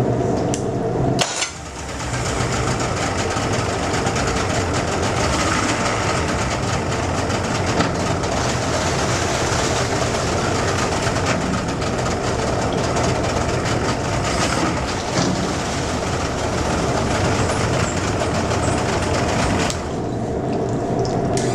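Used Yamaha 115 outboard motor running steadily. A sharp click and a brief dip come about a second in, and then the engine runs on louder. Its level drops slightly near the end.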